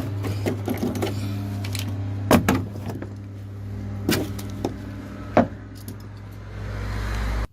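A few sharp clunks and knocks as a ratchet strap and its metal hook are handled against the van, over a steady low hum. Everything cuts off suddenly near the end.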